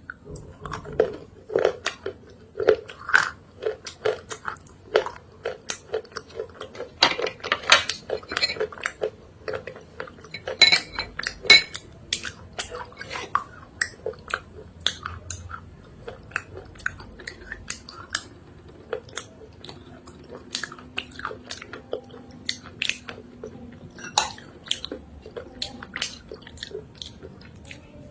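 Close-up chewing of a thick chalk-clay paste, with a dense run of sharp, irregular wet crackles and crunches and an occasional clink of utensil or pot.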